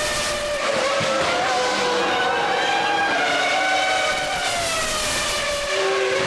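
High-revving racing car engines, several heard at once, their pitch sliding up and down as the cars pass and change speed.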